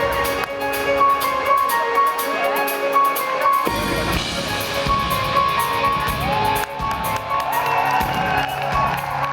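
Live rock band playing in an arena, with the crowd cheering and whooping over it; the low end of the music fills out about four seconds in.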